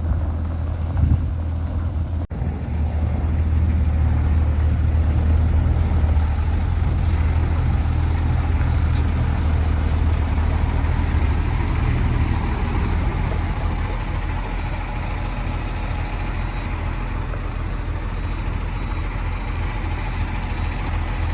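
Heavy diesel engine running steadily, a low hum that grows louder from about four seconds in and eases back after about twelve seconds.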